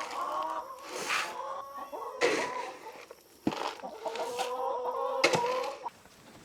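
Several chickens clucking together, their calls overlapping without a break.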